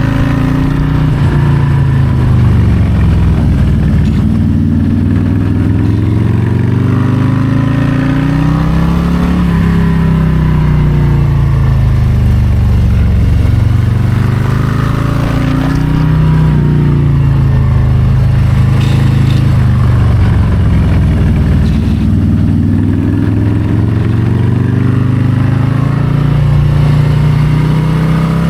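Harley-Davidson Low Rider ST's Milwaukee-Eight 117 V-twin running under way, its revs rising and falling over and over as it accelerates and eases off, with about a half-dozen climbs and drops in pitch.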